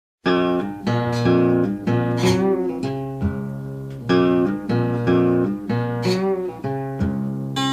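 Solo acoustic guitar playing a slow Delta blues introduction: a plucked figure with bent notes that repeats about every four seconds.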